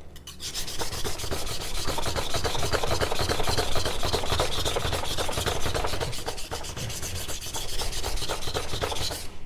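A stainless steel knife blade being stroked fast back and forth over a wet whetstone in a long run of quick scraping strokes, freehand sharpening on the first stone to set the apex. The strokes begin about half a second in and stop just before the end.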